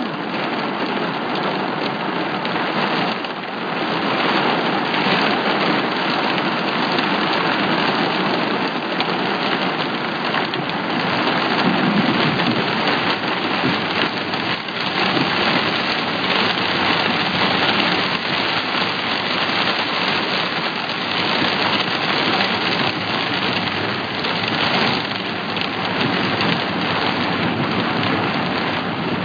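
Heavy thunderstorm rain falling steadily: a loud, even hiss of downpour that varies only slightly in strength.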